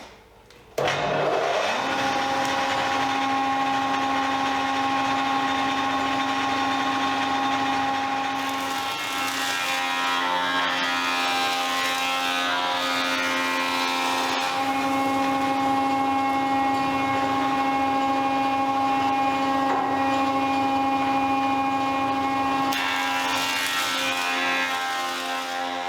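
An electric woodworking power tool starts about a second in and runs steadily at a constant pitch, with rougher, noisier stretches in the middle and near the end.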